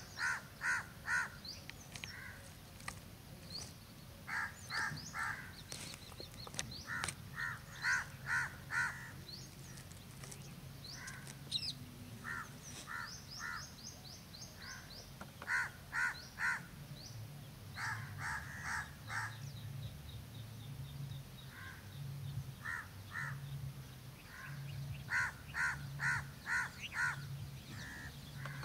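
Birds calling: short runs of three to five evenly spaced calls, repeated every few seconds, with thin high chirps from small birds over them. A low hum runs underneath and begins to pulse about halfway through.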